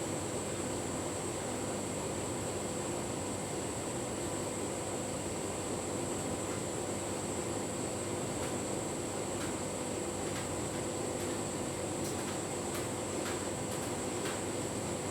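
Tumble dryer running with a full load of bedding: a steady hum of the drum turning and the fan blowing, with a few faint ticks in the last few seconds.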